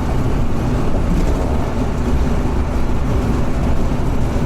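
Scania truck driving along, a steady engine and road rumble with no change in pace.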